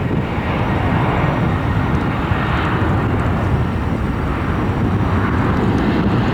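Jet airliner engines, a steady, loud rush and rumble.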